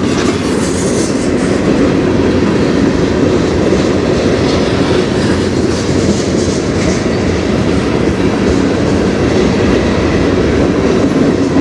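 Freight train cars rolling past at close range: a loud, steady rumble of steel wheels on the rails.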